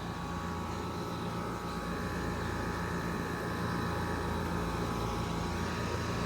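Outdoor heat pump units running in cooling mode: the steady drone of the compressor and condenser fan, with a low hum and a few steady whining tones that grow slightly louder.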